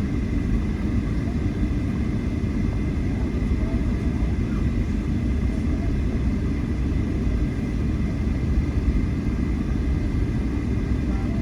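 Steady low rumble of an airliner's cabin noise as the plane taxis into the gate, engines and air system running, with a faint steady high whine over it.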